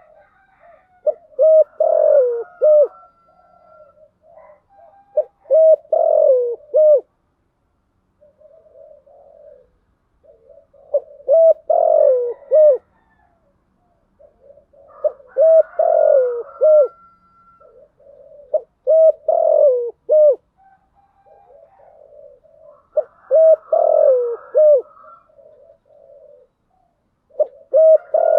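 Spotted dove cooing in repeated phrases about every four seconds. Each phrase is a quick run of short notes that drop in pitch, and softer low coos fill some of the gaps between phrases.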